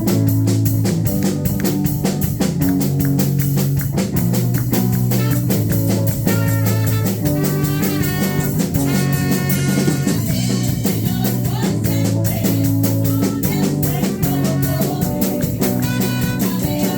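Worship band playing an instrumental passage with a steady drum beat and held bass notes, and a higher melodic line that comes in about six seconds in.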